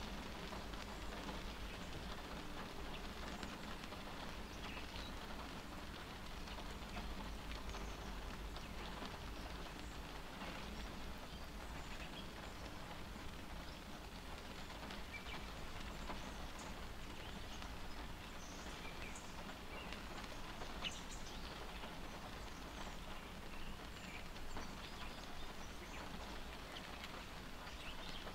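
Steady rain pattering on a car's windshield, heard from inside the stopped car, with scattered drop ticks.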